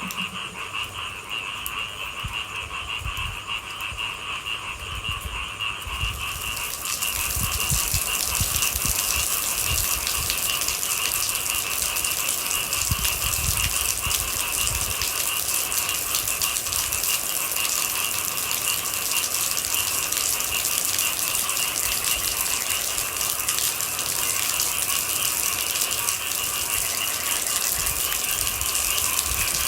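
Night chorus of frogs, a steady fast rattling trill in two pitches. About six seconds in, a steady hiss of rain joins it and the whole sound grows louder.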